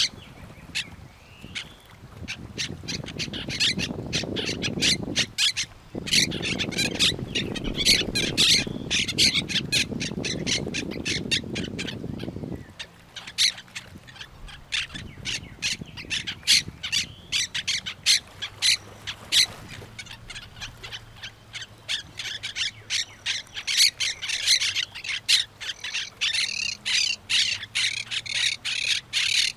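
Parrots squawking and chattering in a constant stream of short, harsh calls, several a second. Under the first half runs a low rushing noise that cuts off suddenly about 13 seconds in.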